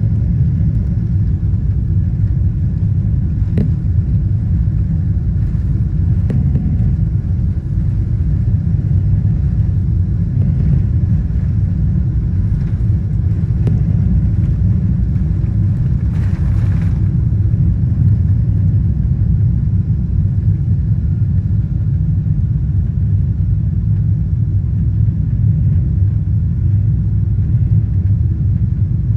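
Steady, loud low rumble inside the cabin of a Boeing 777-200 airliner with its engines running, with a few faint ticks and a brief hiss about two-thirds of the way through.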